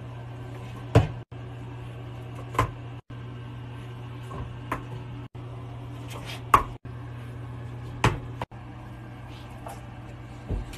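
A handful of sharp knocks or taps, about one every one to two seconds, over a steady low hum.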